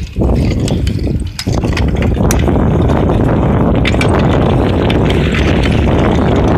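Wind rushing over the microphone of a moving bicycle, a loud, dense rumble that dips briefly about a second and a half in, with a few sharp clicks and rattles from the ride.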